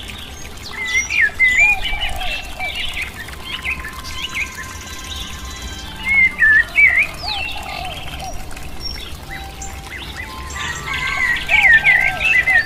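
Small songbirds chirping and twittering in three bouts of quick, swooping calls, over soft background music with long held notes.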